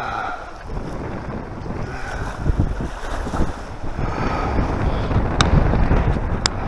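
Wind buffeting the microphone in a gusty low rumble, with two sharp clicks near the end.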